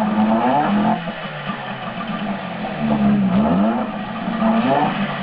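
A Johnson 6 hp outboard motor running on test, its engine note rising and falling as the throttle is opened and eased several times.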